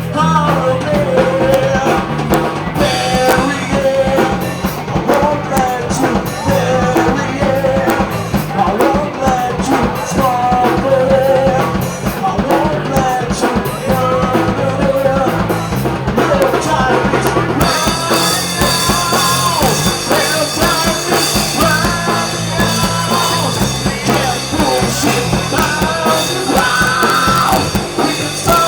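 Rock song with a drum kit and a singing voice over a steady beat; about 18 seconds in the band gets fuller, with cymbals washing over the top.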